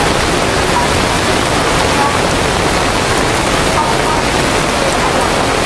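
Loud, steady rush of water in torrential rain and flooding, an even roar with no distinct events.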